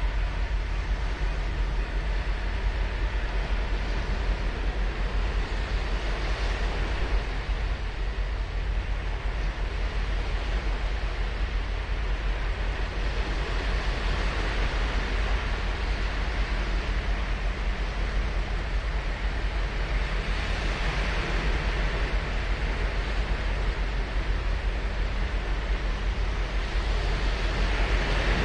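Ocean surf breaking on a sandy beach, a steady wash with waves swelling in about every six to eight seconds over a constant low rumble.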